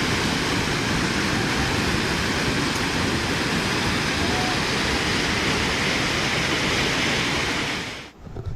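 Steady roar of rushing floodwater from an overflowing river, which breaks off abruptly near the end.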